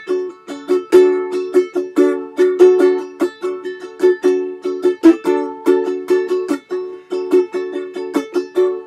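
Ukulele strumming a reggae chord rhythm in the song's instrumental intro, with sharp, evenly spaced strokes several times a second.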